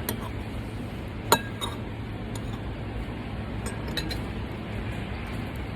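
Cutlery clinking against dishes during a meal: a few sharp clinks, the loudest a little over a second in, over a steady low background hum.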